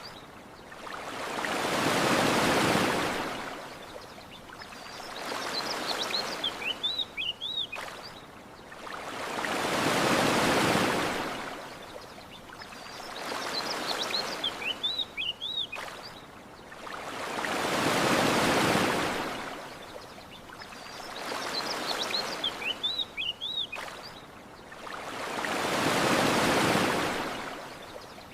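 Ocean waves washing up on a shore, a big wave about every eight seconds with a smaller one between, and a short run of bird chirps in each lull. The same pattern repeats evenly, like a loop.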